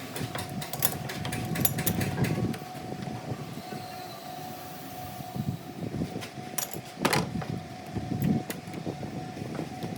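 Machine-shop machinery running with a steady whine, with irregular metallic clatter and knocks, thickest in the first couple of seconds and again about seven seconds in.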